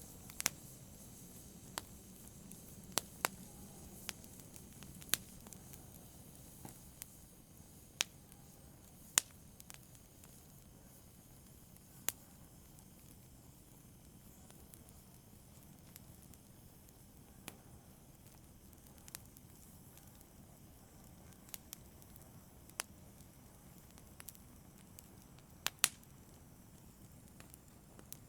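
Wood fire in a fireplace crackling: sharp single pops at irregular intervals, roughly one every second or two, over a soft steady hiss.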